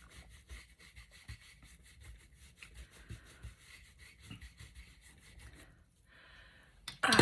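Vintage Photo distress ink being rubbed onto the edges of a paper card in quick, even back-and-forth strokes, a scratchy brushing that stops about six seconds in.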